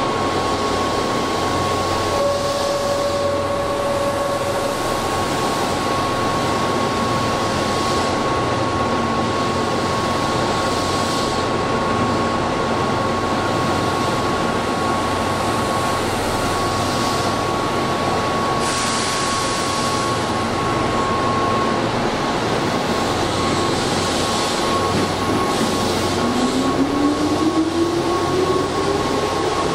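Keihan 8000 series commuter train standing at an underground platform with a steady hum and a held tone, then setting off about 26 seconds in, its traction motors whining up in pitch as it accelerates away.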